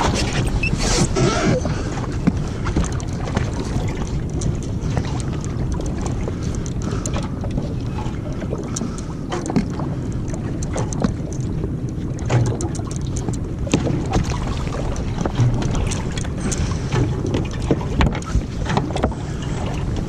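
Sea-Doo jet ski running on open ocean water, with wind buffeting the microphone and frequent short knocks and splashes throughout.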